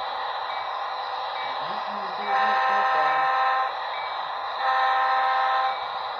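HO scale SD40-3 model locomotive's sound decoder playing a running diesel engine through the model's small speaker, with two blasts of its multi-tone horn, the first starting about two seconds in and lasting about a second and a half, the second a little over a second long near the five-second mark.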